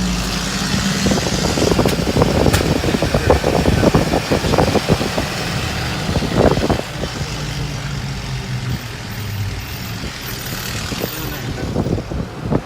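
Car driving along, its engine humming steadily under road and wind noise, with a stretch of irregular knocks and rattles in the first half.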